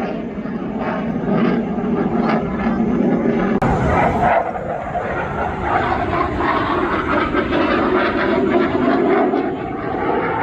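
Aircraft engine noise from a plane flying at an air show, loud and continuous. About a third of the way in there is a sudden change in the sound.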